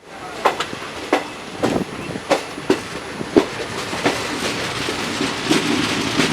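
A train running slowly along the track, its wheels clacking over the rail joints about once or twice a second.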